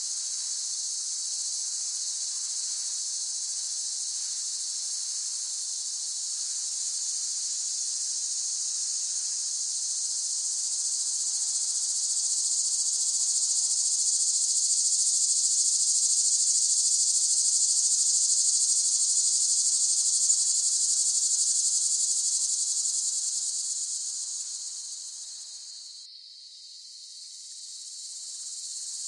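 Cicadas singing in a dense, steady, high-pitched buzzing chorus. It swells louder through the middle, fades near the end and briefly drops away, then builds again.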